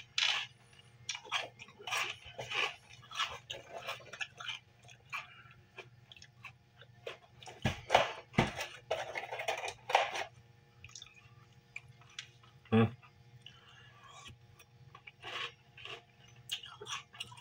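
Close-up chewing of crunchy Reese's Peanut Butter Crunch cereal in milk, with irregular crunches. Two sharp knocks about eight seconds in.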